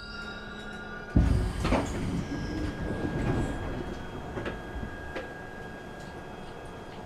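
Glasgow Subway train: a steady whine cuts off about a second in, followed by a sudden loud thump and a few seconds of rattling, then a faint steady tone.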